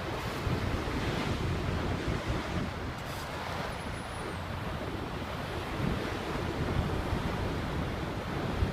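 Sea water washing and splashing, with wind buffeting the microphone in a steady low rumble.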